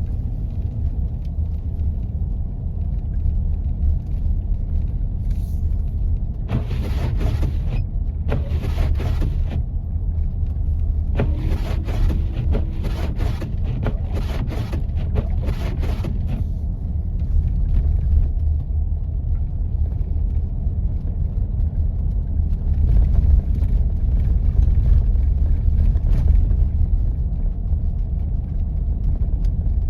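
A 4x4 driving on snow-covered roads: a steady low rumble of engine and tyres. Through the middle come a string of short hissing, scraping bursts, about half a dozen in a row.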